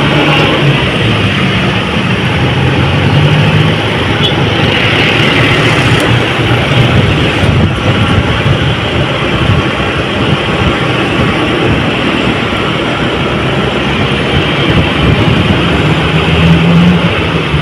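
Truck engine running steadily, mixed with road and traffic noise, with a lower engine hum that grows louder near the end.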